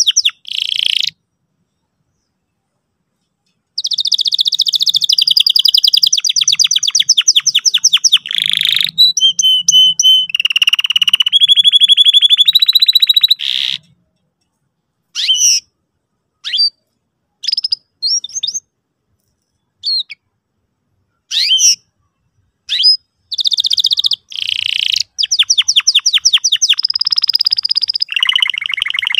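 Domestic canary singing: fast rolling trills and high chirping phrases. The song breaks off with a short pause about a second in, then runs for ten seconds. After that come only scattered single chirps, before the trilling picks up again near the end.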